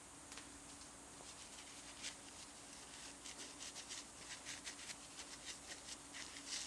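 Faint rubbing and rustling of a towel wiping the removed upper burr of a Breville Barista Express grinder by hand. The small scratchy strokes come irregularly and grow busier about halfway through.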